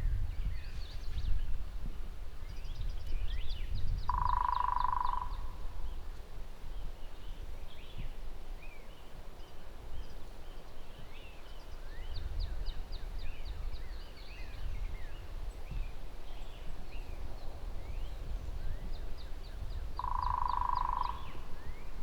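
Birds singing outdoors: several quick high trills, each about a second of rapid repeated notes, and scattered chirps. A steady mid-pitched tone lasting about a second sounds twice, about four seconds in and near the end. A low rumble runs underneath.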